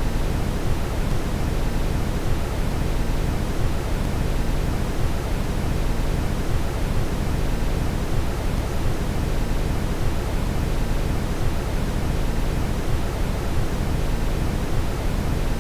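Steady brown noise: an even, unbroken rushing hiss, deepest and strongest in the low end and thinning toward the top.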